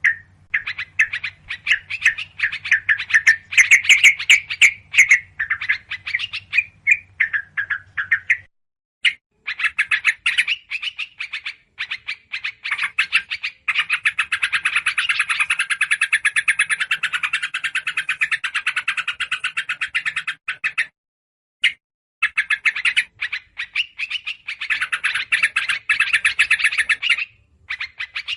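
Bird-lure recording of rapid, agitated chattering calls of yellow-vented bulbuls mixed with other small songbirds, played in stretches with short breaks about a third and three quarters of the way through.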